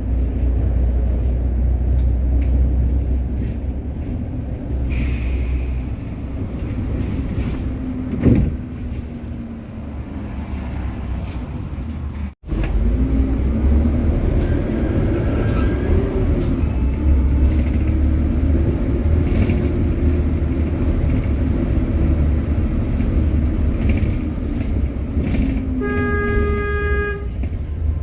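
Hyundai New Super Aerocity city bus engine heard from inside the cabin while driving: a heavy, constant low drone whose pitch rises and falls with acceleration and gear changes. This is the series' worst-condition engine, which the uploader calls strange and screechy. The sound drops out for a moment about halfway through, and a short electronic tone sounds near the end.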